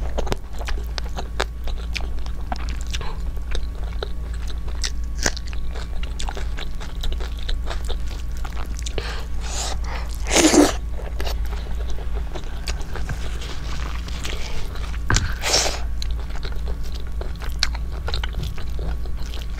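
Close-miked chewing and wet mouth sounds of a person eating rice and curry by hand: steady small smacks and clicks, with louder bursts about ten and fifteen seconds in, over a steady low hum.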